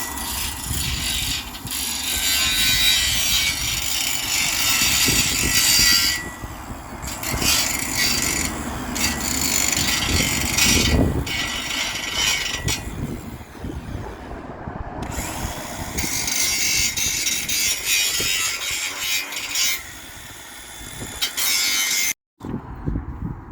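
MIG welder running on the steel frame of a boat bench, in several runs a few seconds long with short breaks between. It cuts off abruptly near the end.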